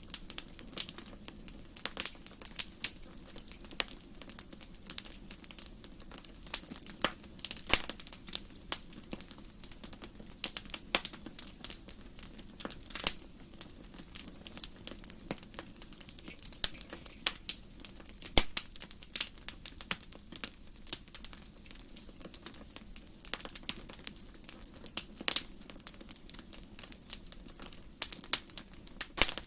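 Wood fire burning in a fireplace, crackling with irregular sharp snaps and a few louder pops over a low steady hiss.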